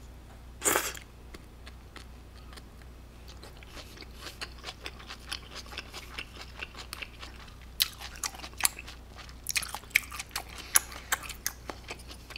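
A person eating cold naengmyeon noodles and grilled pork belly close to the microphone: a short noisy slurp of noodles under a second in, then open-mouthed chewing with many small wet clicks and smacks, busier in the second half.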